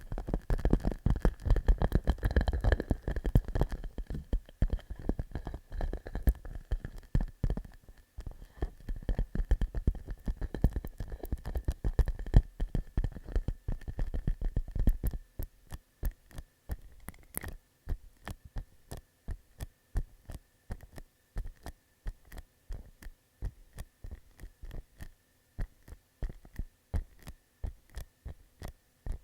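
Fingertips tapping on a clear plastic pouch. The taps are rapid and dense with low thumps for about half the time, then thin out to lighter, sparser taps a few times a second, a sound the maker likens to popcorn popping.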